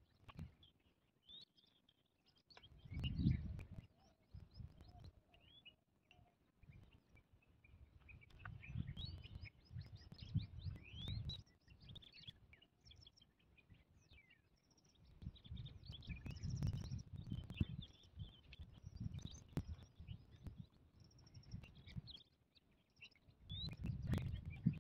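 Small birds chirping with many quick, short calls, over intermittent low rumbles.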